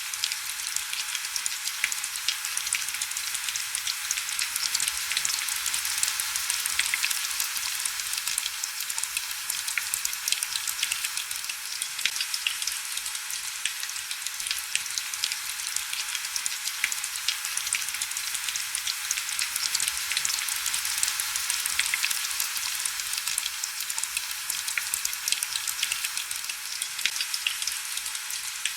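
Steady heavy rain: an even, crackling hiss of dense fine drop patter, with almost no low rumble.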